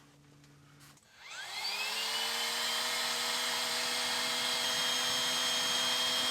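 A small electric motor whirs up to speed about a second in, then runs at a steady high-pitched whine.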